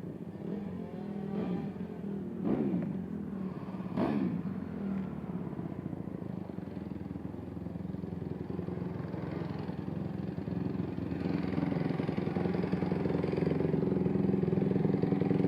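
Small single-cylinder pitbike engines revving, with quick rising-and-falling sweeps in pitch in the first few seconds, then a steady engine note that grows steadily louder towards the end.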